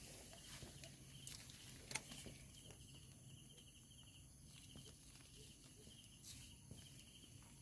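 Faint night insects chirping: short trains of rapid high pulses repeating over and over, over a steady thin high whine, with one small click about two seconds in.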